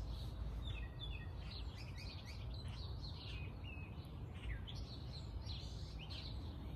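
Garden birdsong: several birds chirping and trilling in short, repeated calls, over a steady low rumble.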